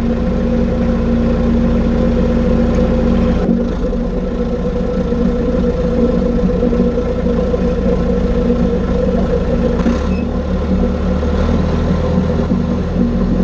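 John Deere 550G crawler dozer's engine running steadily, its note changing about three and a half seconds in and again near ten seconds.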